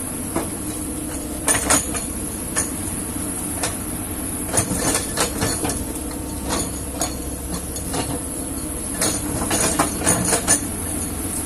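Kobelco excavator's diesel engine running steadily under load, with irregular sharp clanks and knocks from the working machine.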